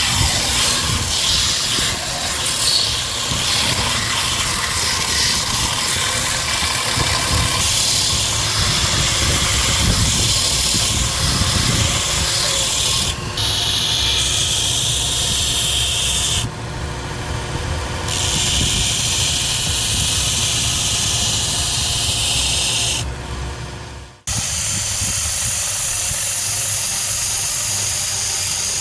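A 2x42 belt grinder running, with a steel shovel blade being ground on the belt: a steady motor hum under a loud grinding hiss. The hiss drops away twice for a second or so while the motor keeps running, and the whole sound breaks off for an instant about 24 seconds in.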